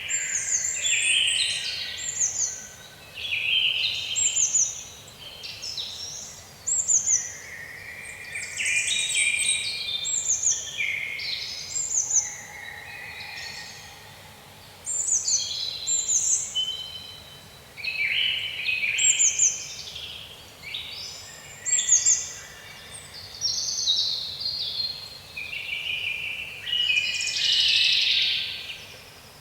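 Woodland songbirds singing in quick, overlapping chirping and warbling phrases, one after another, over a faint steady background hiss.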